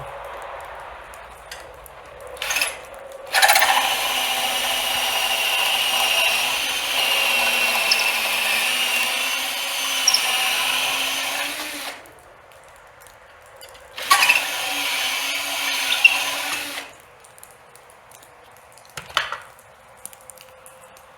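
Cordless drill running under load while drilling a bolt hole, in two runs: a long one of about eight seconds, then after a pause a shorter one of about three seconds. A few short knocks come before and after.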